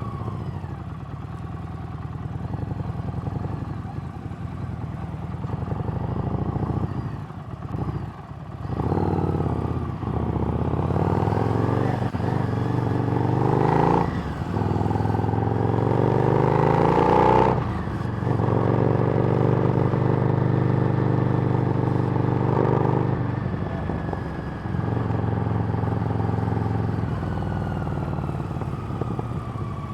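Harley-Davidson Street Rod's 750 cc V-twin running through a Screamin' Eagle exhaust while riding. The engine pulls up through the gears, its pitch rising with short dips at each shift, and is loudest about 15 to 17 seconds in. It then holds a steadier cruising note.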